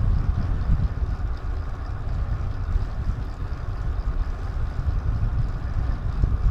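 Wind buffeting the microphone of a DJI Action 2 action camera while riding: a steady, gusty low rumble with a lighter rushing hiss above it.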